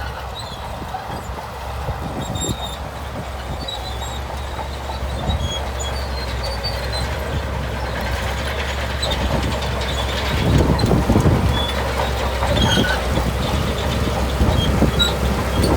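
Shantui bulldozer's diesel engine running under load with the clanking rattle of its crawler tracks, growing louder about ten seconds in.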